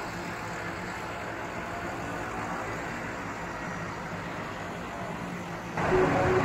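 Tractor engines running steadily in a convoy, as a low even rumble and noise. Music cuts in abruptly near the end.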